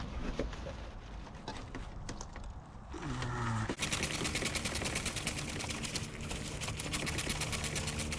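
A small cordless power tool runs with a fast rattling clatter over a steady motor hum, starting about four seconds in: a driver or ratchet spinning out a 10mm bolt. A few faint clicks of hand work come before it.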